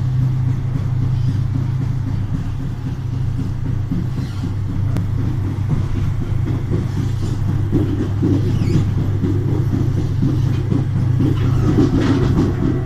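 SNCFT GT 566 diesel locomotive and its train: the engine drones steadily under a low rumble of the running train.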